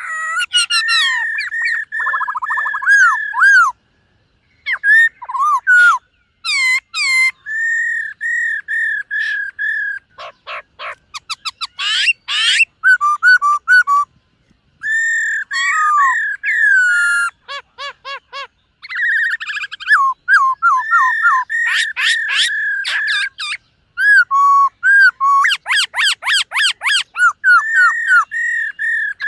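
Black-throated laughingthrush singing: a long run of loud, varied whistled phrases, clear repeated notes mixed with fast trills and chatter, broken by short pauses.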